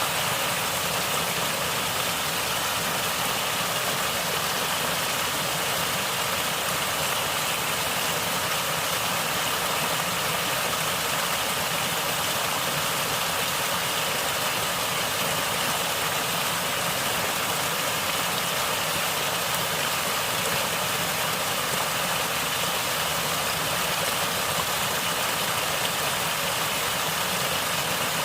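Natural stream water flowing and gurgling steadily, an even rushing hiss with no breaks.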